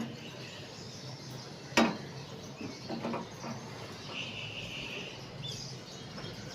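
Budgerigars chirping faintly, with one sharp click about two seconds in and a brief higher chirp a little past the middle.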